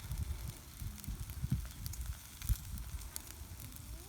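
Wood fire crackling, with scattered sharp pops and thuds over a low rumble.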